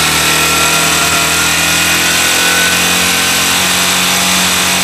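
Warmed-up Honda NXR160 Bros single-cylinder engine running steadily at raised revs, its pitch creeping slightly upward, while its charging system is under test.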